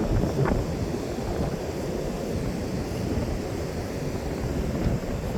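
Wind buffeting the microphone over the steady wash of ocean surf on a beach, a constant low rumble.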